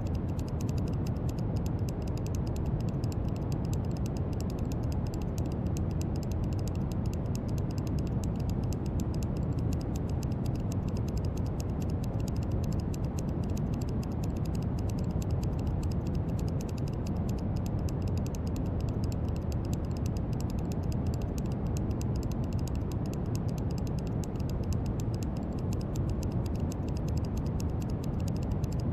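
Steady brown noise: a deep, even hiss, strongest in the low end and unchanging, with a faint fine crackle in the highs.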